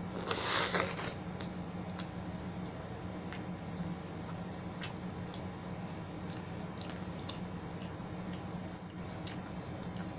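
A loud crunchy bite into food about half a second in, followed by chewing with scattered small mouth clicks over a steady low hum.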